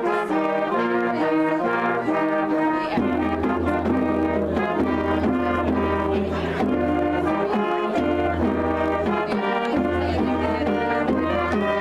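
Brass ensemble music: several brass instruments play moving chords over a low held bass note, which drops out briefly now and then.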